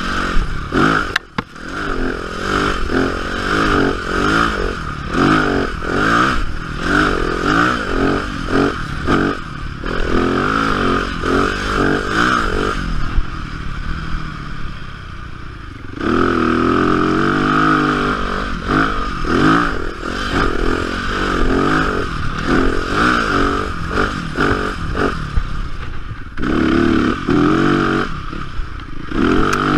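Yamaha dirt bike engine heard on board while riding, revving up and down again and again as the throttle is worked. About 13 seconds in it falls to a lower, quieter note for about three seconds, then revs back up.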